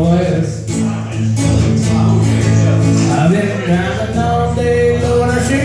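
Live country song: a strummed acoustic guitar with a man singing.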